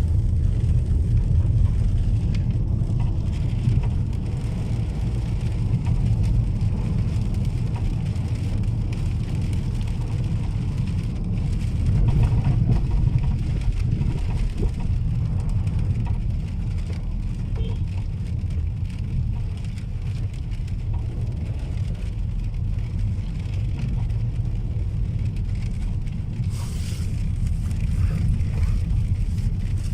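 Car driving on a wet road, heard from inside the cabin: a steady low rumble of engine and tyres, with a brief hiss of spray near the end.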